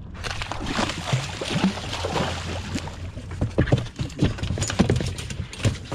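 A blacknose shark thrashing on the boat, a fast irregular run of knocks and thumps against the hull and box, over a steady low hum.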